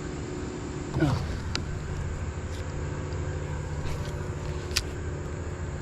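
A fishing cast: a brief whine about a second in that falls quickly in pitch, followed by a couple of sharp reel clicks, over a steady low hum.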